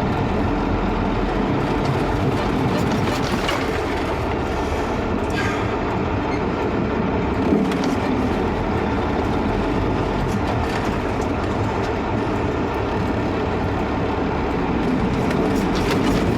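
Diesel semi-truck engine running steadily under load while a semi tries to pull a frozen-in truck free, its drive tires spinning without traction on the ice. A single sharp knock comes about seven and a half seconds in.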